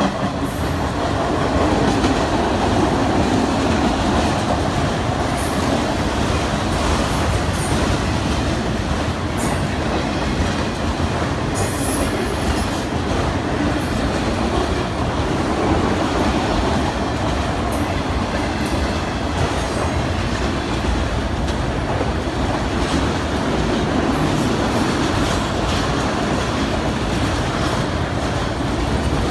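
Empty autorack freight cars rolling past at close range: a steady rumble and clatter of steel wheels on rail, with a few brief high-pitched squeals in the first half.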